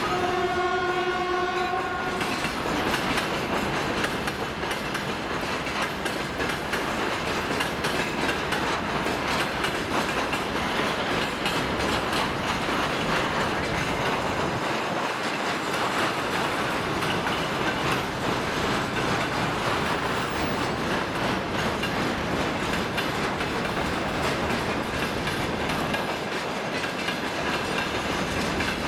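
Freight wagons of a goods train rolling past on the rails: a steady rumble with the clatter of wheels over rail joints. A train horn holds one steady note at the start and stops about two seconds in.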